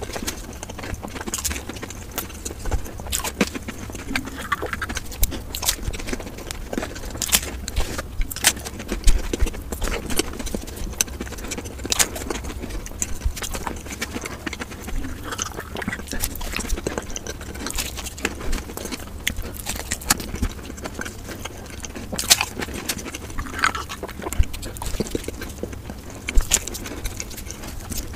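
Close-miked chewing of fried samosas: irregular crisp crunches and wet mouth clicks, one after another.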